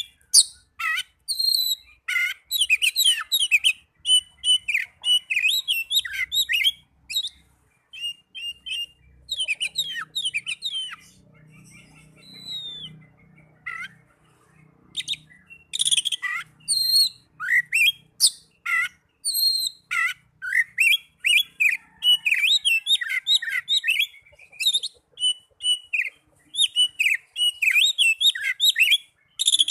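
Oriental magpie-robin (kacer) singing a rapid, varied song of whistles and chirps, with a short quieter break about halfway through.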